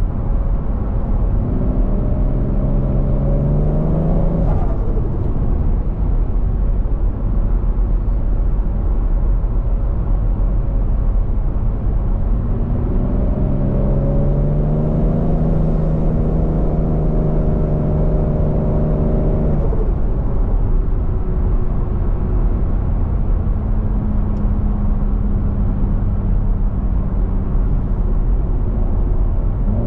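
Turbocharged 1JZ-GTE VVTi engine in a swapped Scion FR-S under way, with a steady deep rumble. It pulls twice, its note climbing for a few seconds and then dropping off suddenly, then holds a steady cruise.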